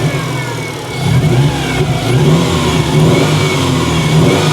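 Subaru Impreza's freshly installed flat-four boxer engine running and being revved, the pitch rising and falling a couple of times. It runs slightly rough, which the mechanics take for a slight misfire.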